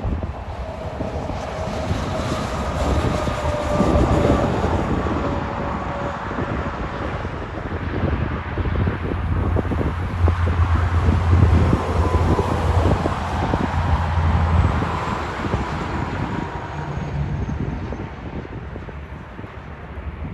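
Semi truck's diesel engine passing on the road, a low rumble that swells to its loudest about halfway through and then fades, with wind on the microphone.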